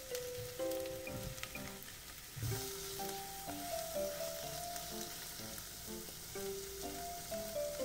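Sliced mushrooms sizzling as they fry down in a small saucepan after giving up their water, stirred with a silicone spatula; the sizzle grows louder about two and a half seconds in. Light plinking background music plays over it.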